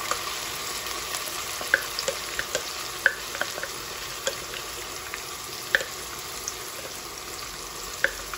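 Hot oil sizzling steadily in a pan with half-browned garlic as ground onion paste is scraped in, with a few sharp clicks scattered through.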